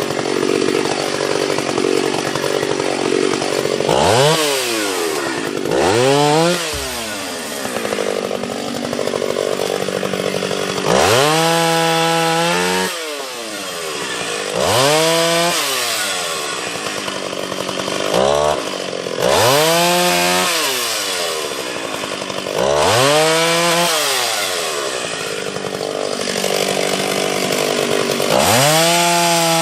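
Two-stroke Stihl 031 chainsaw idling, then revved up to full throttle about eight times to cut through limbs and trunk sections of a felled sweet gum tree. Its pitch sags while it is cutting and falls back to idle between cuts.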